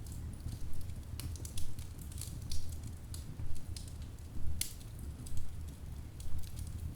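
Wood fire in a fireplace crackling: irregular sharp pops and snaps from the burning logs over a steady low rumble of the flames, with the sharpest pop a little past halfway.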